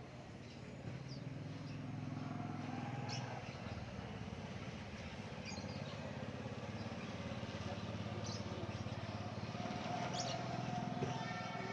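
A motor engine running steadily nearby, swelling about a second in, with birds chirping briefly every few seconds.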